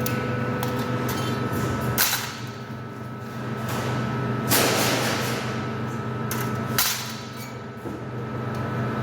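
Workshop machinery running with a steady hum, cut by three sharp knocks about two seconds apart, the middle one the longest.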